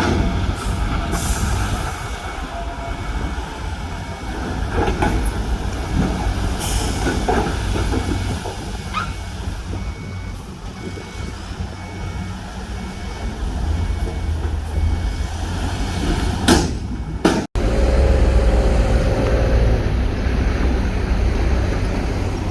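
Heavy diesel earthmoving machinery running steadily, with a low engine rumble and scattered knocks and clanks. A faint repeating beep sounds over the first several seconds, and the sound cuts off abruptly about three-quarters of the way through before resuming.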